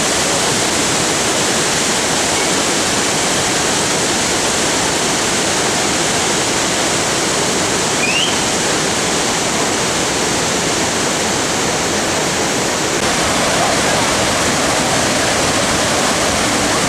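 Monsoon-swollen waterfall: a loud, steady rush of heavy falling water. About eight seconds in there is a brief rising chirp over it, and the sound of the rush shifts slightly at about thirteen seconds.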